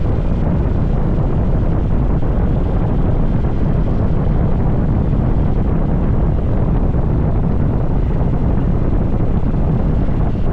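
Steady wind rushing over the microphone of a moving motorcycle, mixed with the bike's engine and road noise.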